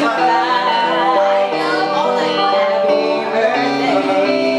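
Live music: an acoustic guitar playing a stepping line of notes, with some singing.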